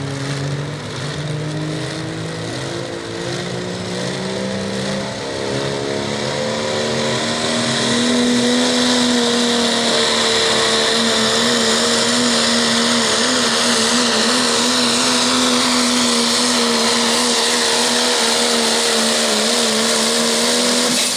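Turbocharged pro stock diesel pickup truck pulling a sled at full throttle. The engine note climbs and gets louder over the first several seconds, then holds high and steady, with a faint high whine over it.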